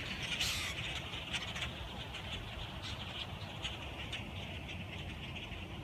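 A huge flock of migrating birds calling together: a dense, unbroken chatter of many overlapping short, high calls, with a steady low rumble underneath.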